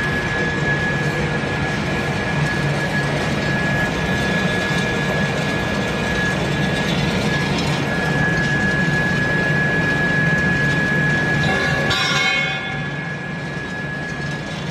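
Wood pellet production line machinery running steadily: a dense mechanical din with a constant high whine and a low hum. About twelve seconds in, a brief metallic ringing sounds, and then the noise becomes a little quieter.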